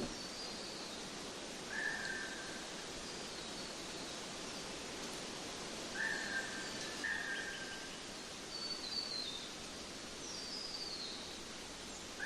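Songbirds calling over a steady outdoor hiss: short whistled notes about three times, and between them higher, falling chirps.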